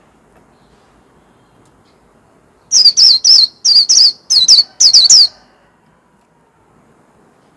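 White-eye (vành khuyên) singing a loud, rapid run of about nine sharp, high notes, each sweeping down in pitch. The run starts about three seconds in and lasts some two and a half seconds.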